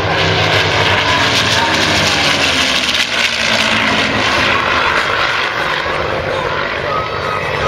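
P-51 Mustang's Merlin V-12 engine running loud as the fighter flies past, its note falling slowly in pitch.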